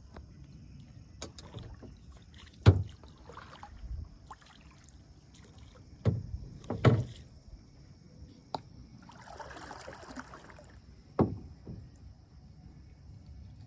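Kayak being paddled: about half a dozen sharp hollow knocks against the boat and a brief swish of water about two-thirds of the way through.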